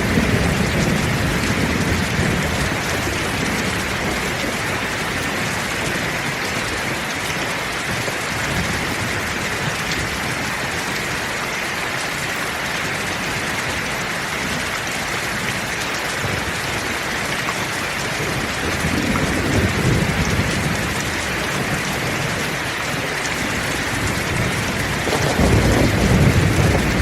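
Heavy, steady rain with rolling thunder: a rumble dies away just after the start, another rolls in about two-thirds of the way through, and a louder one begins near the end.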